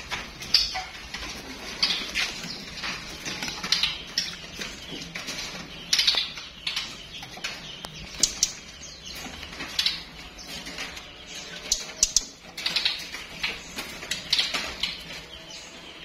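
Caged songbirds fluttering and hopping about their cages, with a busy, irregular scatter of short high chirps and clicks.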